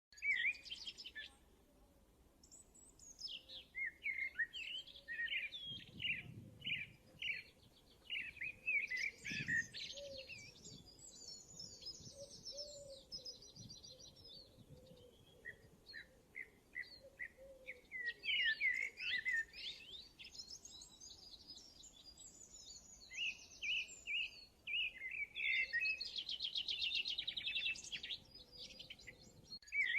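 Small birds chirping and singing in quick twittering phrases and trills, one after another with brief pauses.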